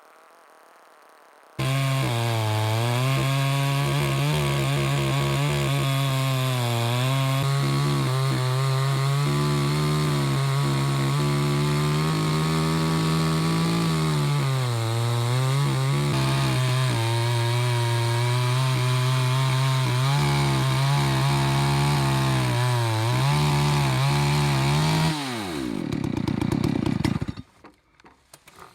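Holzfforma G388 two-stroke chainsaw ripping a hickory log on an Alaskan sawmill, running at high throttle with its pitch sagging and recovering now and then under load. It comes in suddenly about a second and a half in. Near the end the engine drops off and winds down to a stop.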